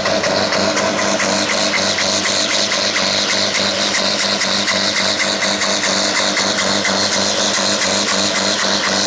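Farm tractor's diesel engine running hard under load while pulling the weight-transfer sled: a steady, loud drone with a rapid even pulse.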